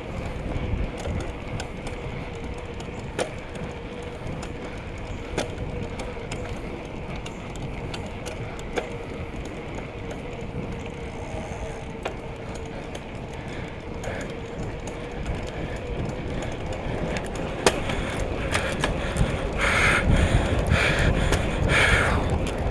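Riding noise from a bicycle on a paved road: tyres rolling with a steady hum, wind on the microphone and scattered rattling clicks from the bike. It grows louder near the end, with a few short, evenly repeated sounds.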